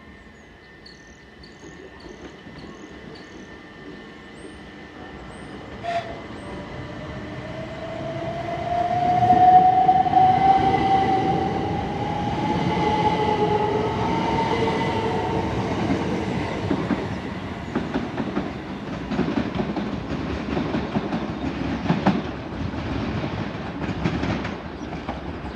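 Class 375 Electrostar electric multiple unit pulling away: its traction motor whine rises steadily in pitch as it accelerates. About six seconds in there is a sharp crack of a third-rail pick-up shoe arcing. Later the wheels clatter over the rail joints as the train passes.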